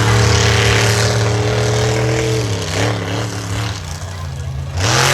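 Monster truck engine held at steady high revs for about two and a half seconds, pitch creeping up slightly, then easing off, over a loud noisy background.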